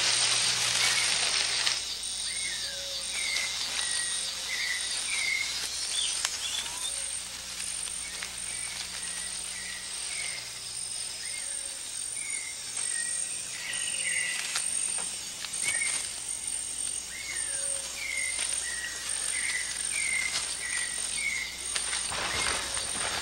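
Rainforest ambience: a bird repeats short whistled call notes every second or so over a steady high insect drone. A louder rushing hiss fills the first two seconds, then stops.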